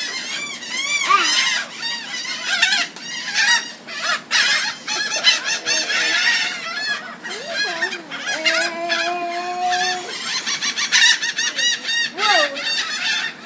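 A flock of birds calling together, many rapid overlapping chirps and honks, with one long, steady call held for a second or two about two-thirds of the way through.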